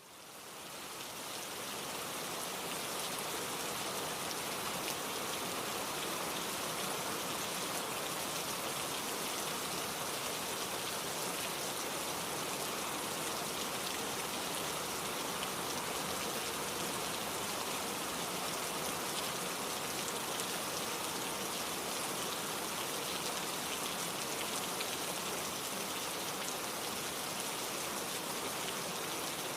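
Steady rain falling, fading in over the first couple of seconds and then holding even.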